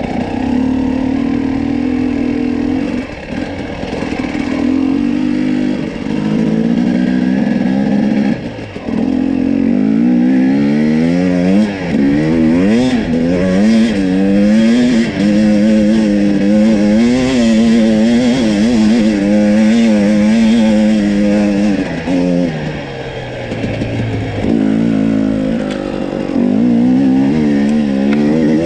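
Husqvarna TE250i two-stroke enduro engine running under a constantly varying throttle, its pitch rising and falling over and over, with a few brief dips where the revs drop before it picks up again.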